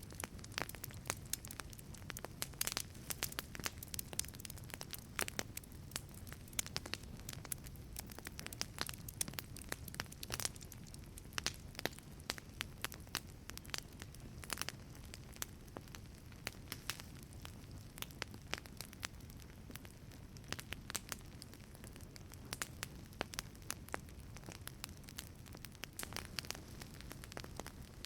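Wood fire crackling in a wood-fired pizza oven: frequent irregular sharp cracks over a low steady rush of the flames.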